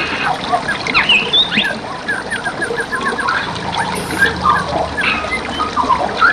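Several songbirds singing and calling over the steady trickle of flowing stream water. There are chirps and quick sweeping notes, with a rapid run of repeated notes about two seconds in.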